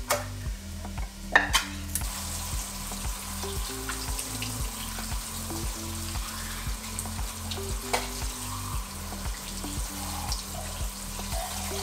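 Ground beef sizzling in a frying pan, a steady hiss, under background music with a steady beat and a bass line. Two sharp clicks or knocks come in the first couple of seconds, and a lighter one later.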